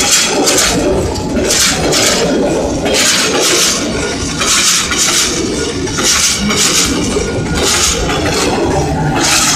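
Passenger coaches of a diesel-hauled train rushing past close by: a loud rumble and clatter of wheels on rail, with a hissing rush that swells and fades about once a second.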